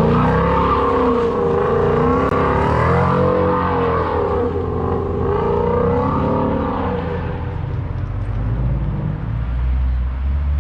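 Ford Mustang GT's V8 engine revving hard, its pitch rising and falling several times before easing off in the second half.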